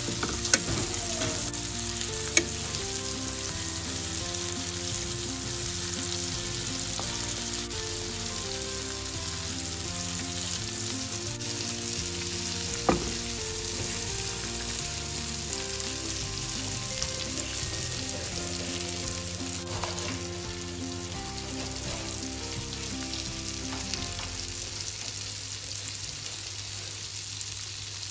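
Slices of sujuk sausage sizzling steadily in butter in a frying pan, with a few sharp clicks of a fork against the pan as the slices are turned, the loudest about halfway through.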